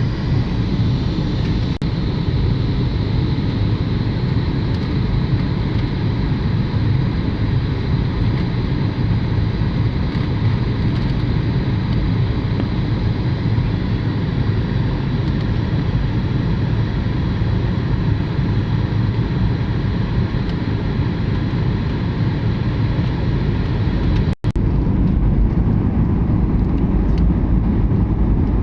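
Steady roar of an aeroplane's engines and rushing air heard from inside the cabin as the aircraft comes in to land. There is a brief break near the end.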